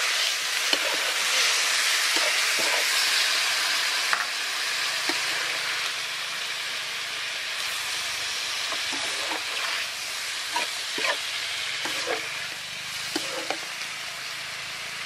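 Pig blood curd cubes sizzling in a hot metal wok while a metal ladle stirs them, with scattered scrapes and knocks of the ladle against the pan. The sizzle is loudest at first and eases a little after about six seconds.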